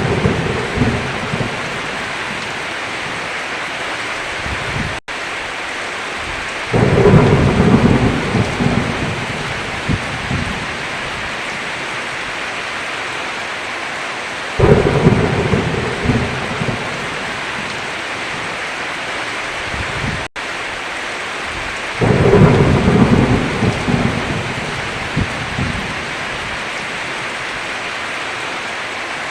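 Heavy rain hissing steadily, with low rolls of thunder breaking in about every seven to eight seconds, three times after a roll that is fading at the start. The sound cuts out for an instant twice.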